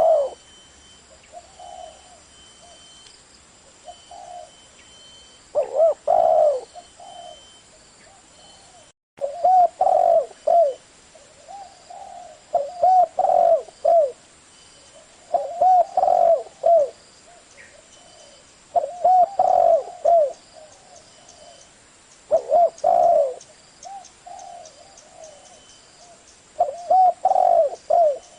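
Spotted dove cooing: a phrase of several quick, low hooting notes every two to four seconds, with a brief cut in the sound about nine seconds in.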